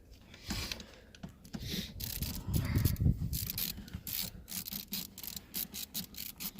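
Hands and tools working on parts of an engine bay: scattered knocks and clunks, then a fast, even run of sharp clicks, several a second, from about four seconds in.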